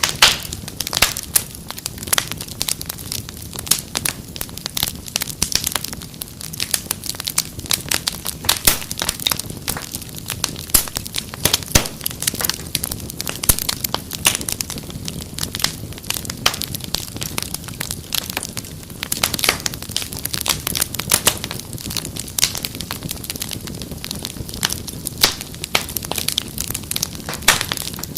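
Wood fire crackling in a fireplace: a dense, irregular run of sharp pops and snaps over a low, steady rumble of the flames.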